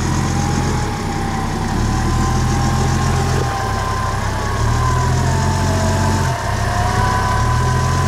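Off-road 4x4's engine idling steadily, with a faint whine that wavers slowly up and down above the engine note.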